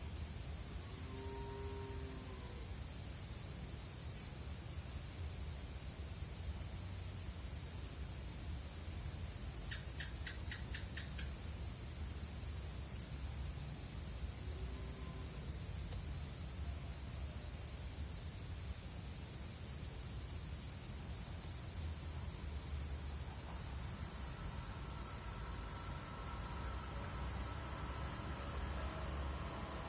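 Night chorus of crickets and other insects: a steady high continuous trilling with repeated pulsed chirps below it. A short run of rapid ticks comes about ten seconds in, and a couple of short low calls sound near the start and about halfway.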